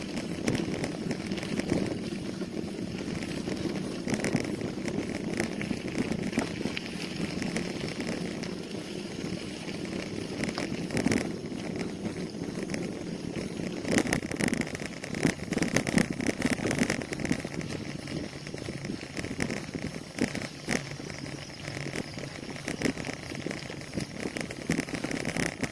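Bicycle being ridden: steady tyre and wind noise with frequent small rattles and clicks.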